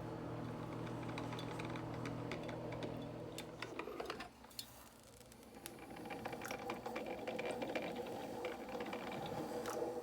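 Aiosa drip coffee maker brewing: a steady hum for the first few seconds, then a dip and a run of small clicks and crackles over a steady tone.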